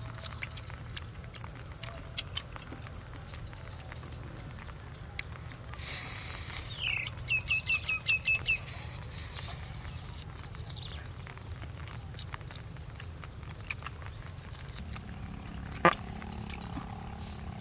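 Soft wet chewing and lip-smacking clicks from eating boiled goat meat, over a steady low hum. About six seconds in, a bird calls a falling note followed by a quick run of about seven short high notes, the loudest sound here. A single sharp click comes near the end.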